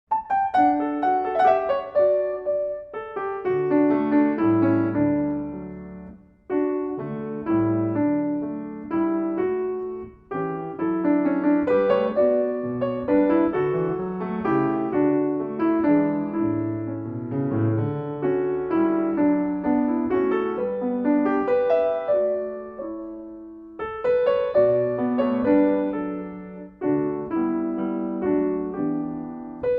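Piano playing a melody over chords, with brief breaks about six, ten and twenty-four seconds in.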